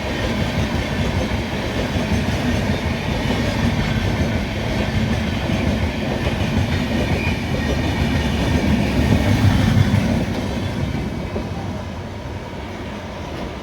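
Train running on the track, its wheels clattering over the rail joints; the noise peaks about nine to ten seconds in, then fades.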